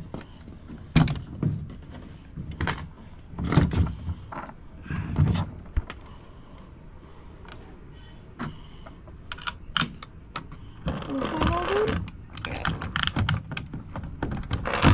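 Metal mounting hardware being handled while bolting a trolling motor mount to a boat deck: a few dull knocks in the first five seconds, then scattered sharp clicks and clinks of bolts, washers and nuts.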